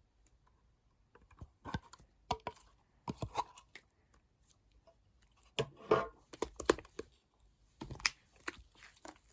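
Two-layer slime being squeezed and poked by hand, giving irregular bursts of small crackles, clicks and sticky pops, with short pauses between handfuls.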